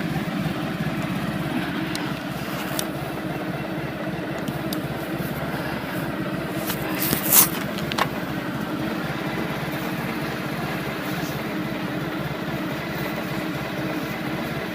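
Motorcycle engine running steadily. A sharp click or knock comes about seven seconds in.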